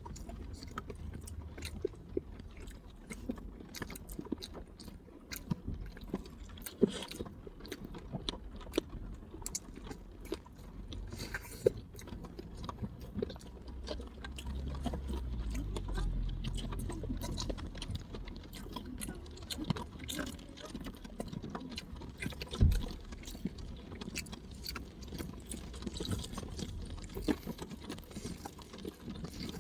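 A person biting and chewing hot boiled corn on the cob, a string of small crisp bites and chewing clicks over a low rumble.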